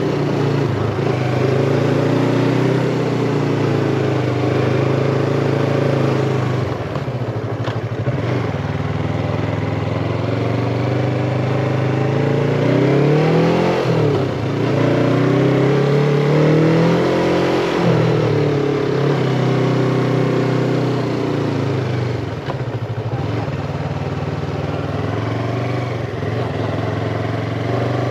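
Yamaha MT-25's parallel-twin engine running under way, its revs rising and falling several times, with quick drops and climbs in pitch a little before halfway and again after it as the rider shifts gear and works the throttle.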